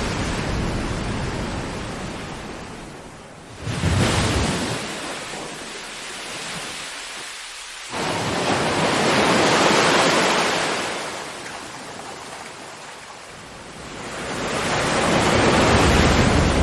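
Ocean waves breaking and washing onto shore in slow surges, each swelling and fading over several seconds. Two waves break abruptly, about four and eight seconds in, and a third builds up near the end.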